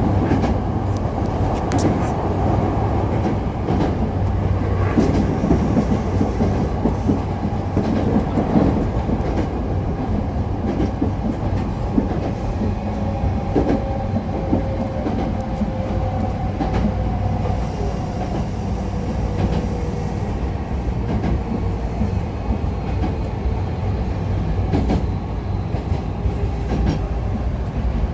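Hankyu electric train running, a steady rumble with the clicking of wheels over rail joints. About halfway through, a faint whine slowly falls in pitch for several seconds.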